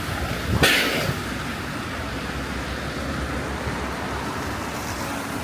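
Winter street ambience: steady low rumble of city traffic, with a brief loud hiss about half a second in.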